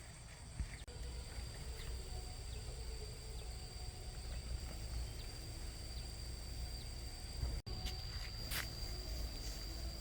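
Outdoor rural ambience: a steady high insect trill over a low rumble, with a few faint clicks and a brief dropout about three-quarters of the way through.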